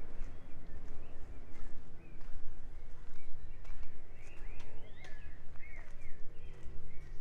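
Several birds chirping in short, curving calls, busiest midway, over footsteps on a path and a steady low rumble.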